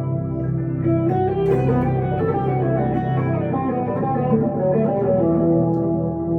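Electric guitar, a 1962 Gibson Les Paul Custom through a Two-Rock Emerald Pro valve amplifier, playing a melodic line of single notes, with a long held note near the end.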